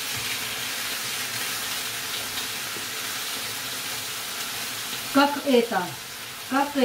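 Tuna steak sizzling steadily as it fries in a pan. A woman's voice cuts in briefly near the end.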